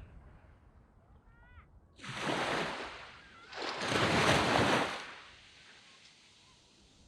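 Waves breaking and washing up a sand beach. The first swell comes about two seconds in, and a louder one follows at about three and a half seconds. Each is a rushing hiss that builds and then fades.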